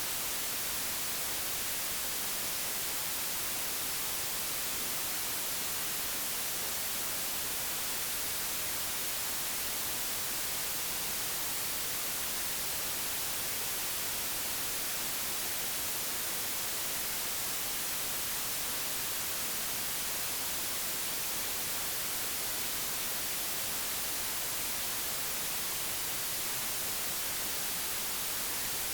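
Steady, unchanging white noise, digitally generated: an even hiss across the whole range with no breaks or changes.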